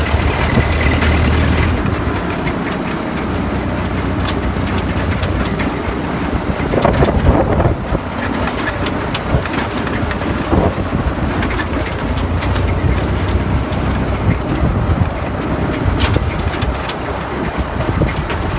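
1951 Ford 8N tractor's four-cylinder flathead engine running steadily, with the engine note changing about two seconds in. Insects chirp in a rapid, high-pitched rhythm over it.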